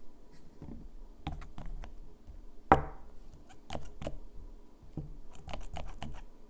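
Light taps and clicks of small manicure items being handled on a hard surface, with one sharp, louder knock a little under three seconds in, like a bottle set down.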